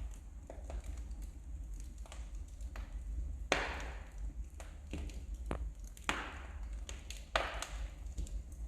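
Wood fire crackling in a fireplace: irregular sharp snaps and pops over a low steady rumble of the flames, with three louder pops about three and a half, six and seven seconds in.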